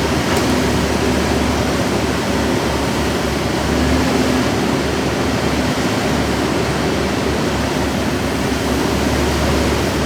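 Roll-off garbage truck's diesel engine running, a steady, loud rush with a low rumble underneath.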